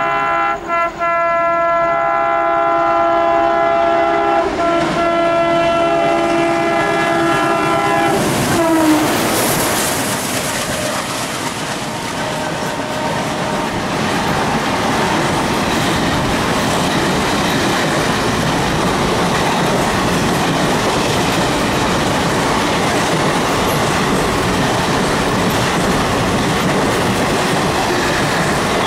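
Indian Railways locomotive horn sounding long, with two quick breaks near the start, its pitch dropping about eight and a half seconds in as the locomotive passes. Then the passing train's coaches run by with steady wheel clatter on the rails.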